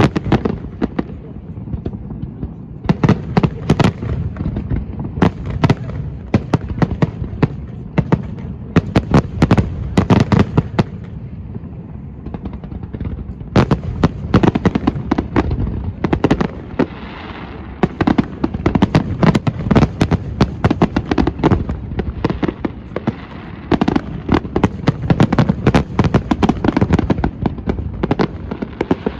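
A fireworks display: volleys of sharp bangs and crackles in dense clusters, with a steady low rumble of booms beneath and a few brief lulls between volleys.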